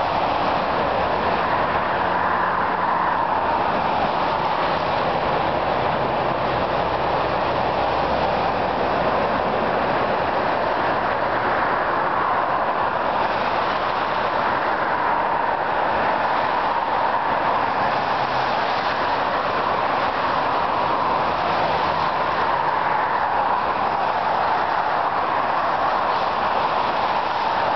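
Freight train of tank cars rolling past with a steady rumble, mixed with the tyre and engine noise of highway traffic driving by.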